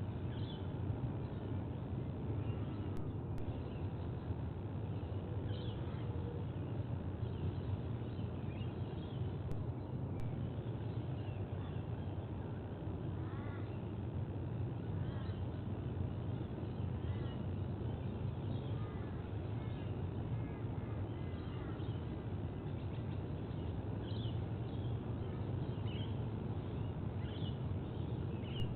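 Short, chirping bird calls scattered throughout, over a steady low rumble.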